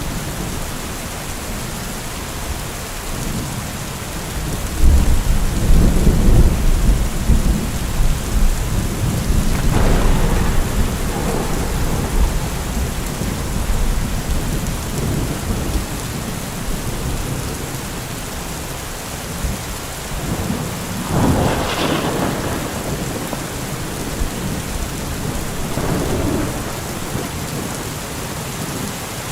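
Heavy rain falling steadily. A deep low rumble swells about five seconds in and lasts a few seconds, and shorter swells come around ten seconds and about twenty-one seconds in.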